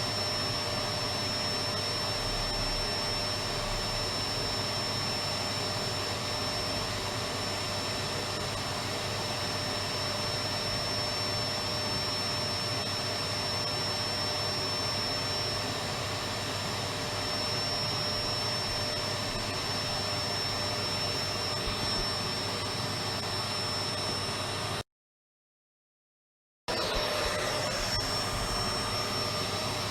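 Electric vacuum cleaner running steadily, an even rushing noise with a high whine. It cuts out to complete silence for about two seconds near the end, then resumes unchanged.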